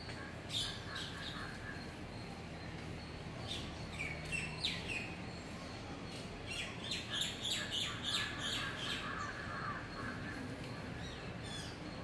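Small birds chirping in several spells of quick high notes and short glides, busiest a little past the middle, over a faint steady high whine.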